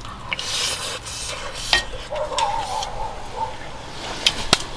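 A person eating a mouthful of pot rice with beef brisket and burdock, making close-miked chewing and wet mouth sounds. Scattered sharp clicks come toward the end.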